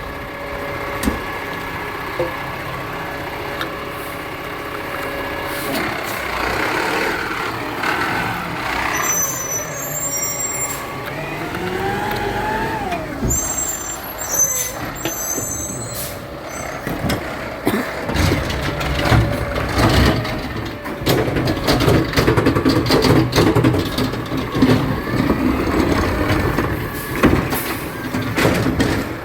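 Garbage truck at work: its engine runs steadily, with a rising and falling whine about twelve seconds in and short high-pitched sounds around it, then the engine grows louder and heavier through the last ten seconds.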